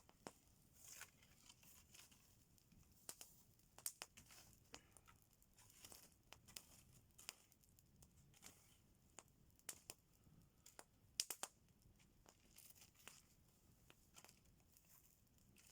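Campfire crackling faintly: irregular small pops and snaps, a few louder than the rest, the loudest about eleven seconds in.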